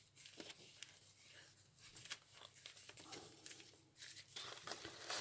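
Faint rustling and light taps of paper and card being handled, growing a little louder near the end.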